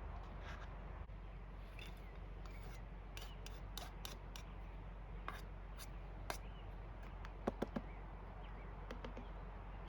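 Small sharp clicks and taps of cooking gear being handled, with three quick louder knocks about seven and a half seconds in, over a steady low hum.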